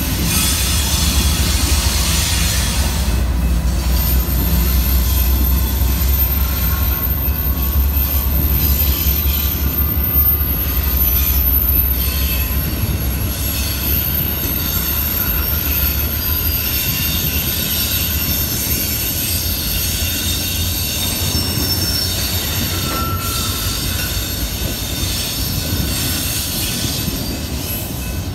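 BNSF diesel freight train passing close by: a heavy locomotive rumble that eases after about twelve seconds, then autorack cars rolling past with steady wheel noise and thin high-pitched wheel squeal.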